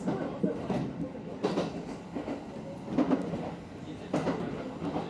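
Kintetsu electric commuter train running, heard from inside the cab: a steady rumble with the wheels knocking over rail joints at irregular gaps of about a second.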